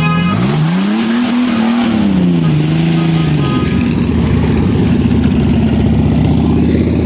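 Car engine revved hard, its pitch climbing, holding, dipping and rising again before dropping back, then running steadily with a rough note.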